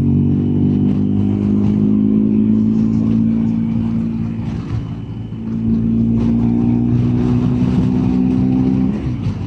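BMW R1250GS Adventure's boxer-twin engine pulling under steady throttle, a steady engine note that eases briefly about halfway through and drops away near the end.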